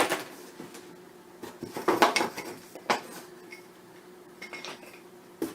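Hard clinks and clatter of beehive kit parts being handled and set down, in a few separate knocks with a cluster about two seconds in.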